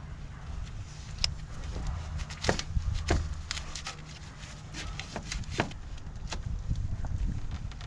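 Hand tools clicking and knocking irregularly against a corroded battery terminal clamp while it is worked loose, with a steady low rumble of wind on the microphone.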